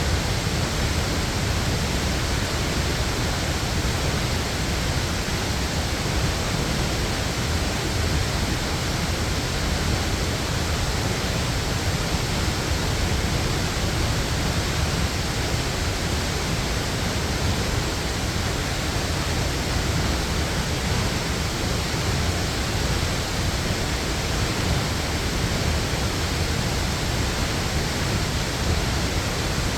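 Waterfall pouring steadily: an even, unbroken rush of falling water, heaviest in the low rumble.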